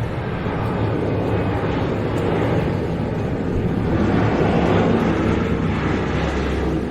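Airliner's engines roaring as it passes the runway-side park, the noise swelling to a peak about four to five seconds in and easing toward the end.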